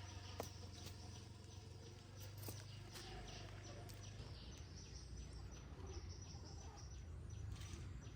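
Faint outdoor ambience: a low rumble with a thin, steady high-pitched chirring and scattered light clicks.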